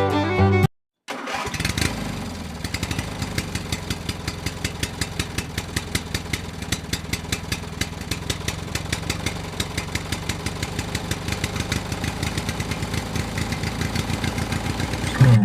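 A small engine starts about a second in, then runs steadily with an even putter of several beats a second. Music plays briefly at the very start.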